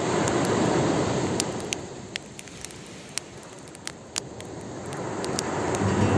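A sea wave washes up and drains back as a surging hiss that swells early and fades by the middle. Over it comes the crackle of a wood fire, with scattered sharp pops. Guitar music returns near the end.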